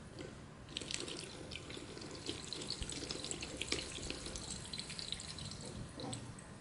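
Water running and trickling, with many small irregular drips and splashes, picking up about a second in and thinning out near the end.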